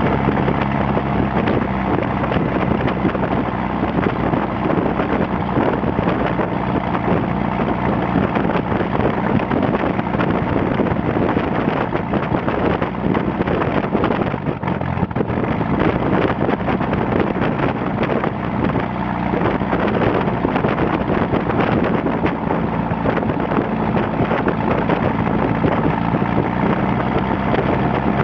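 Xenos motorglider's AeroVee 2180 air-cooled flat-four engine running steadily with its propeller turning, with wind buffeting the microphone.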